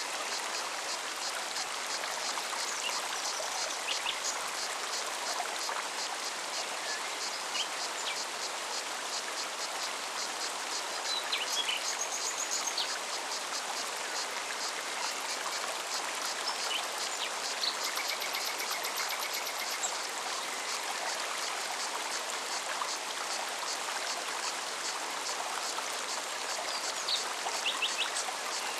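Forest mountain stream running steadily. Above it a cicada pulses in a rapid, even high rhythm, and a few birds give short, scattered chirps.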